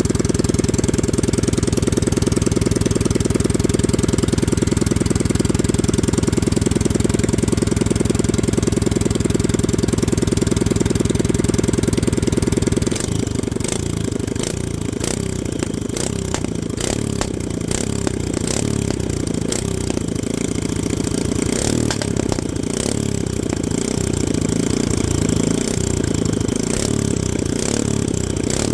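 Predator 212cc Hemi single-cylinder engine running with an open straight pipe, steady and even for about the first half. It then drops to a slightly quieter, lumpy, uneven run broken by many sharp pops.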